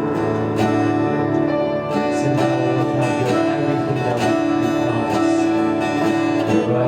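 Instrumental worship music led by a strummed acoustic guitar over sustained chords, in a steady rhythm.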